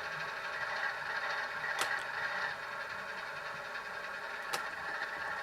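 Sound decoder in a Proto 2000 PA model diesel locomotive playing its diesel engine sound through a single small speaker while the model runs in reverse. Two sharp clicks sound about three seconds apart.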